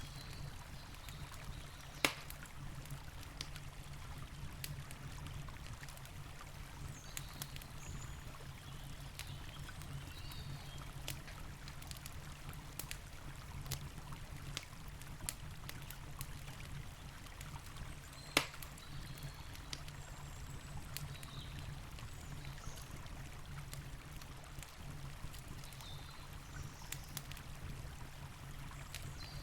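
Campfire crackling with scattered sharp pops, two much louder ones about two seconds in and near eighteen seconds, over the steady rush of a river.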